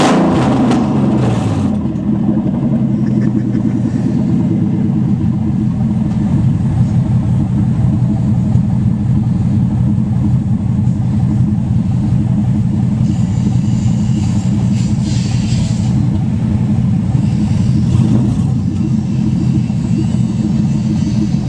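Nissan 300ZX (Z32) naturally aspirated 3.0 L V6 running with no exhaust while driving: the revs fall over the first two seconds, then the engine holds a steady drone.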